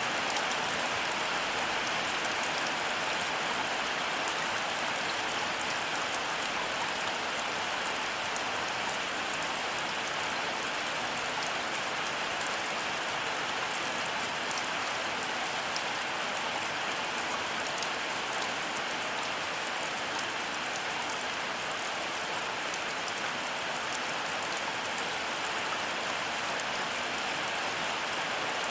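Heavy rain falling steadily, an even hiss of rain with fine, close drop ticks scattered through it.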